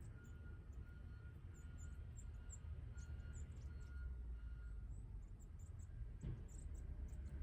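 Faint outdoor park ambience: a steady low rumble of distant traffic, small birds chirping faintly and high, and a repeating beep that stops about halfway through. A single sharp knock comes near the end.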